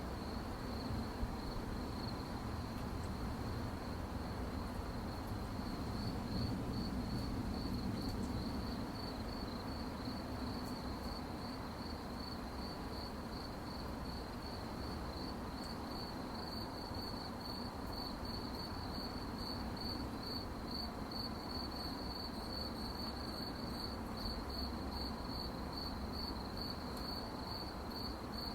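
Crickets chirping at night in a steady, even rhythm of high pulses, over a low, even background rumble.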